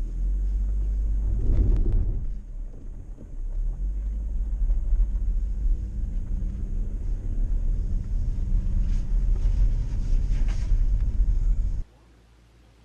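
Steady low rumble of a car driving, engine and tyre noise heard from inside the cabin, which stops suddenly near the end.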